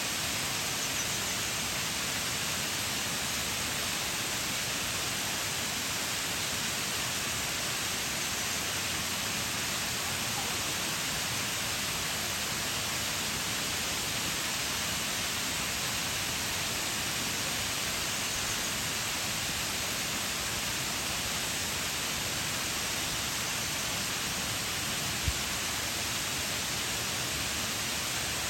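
Shiraito Falls pouring: a steady, even rush of falling water with no change in level, and one brief low thump near the end.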